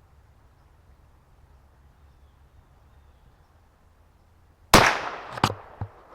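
A single gunshot about three-quarters of the way in, a sharp crack with a short echoing tail, followed by two quick sharp knocks.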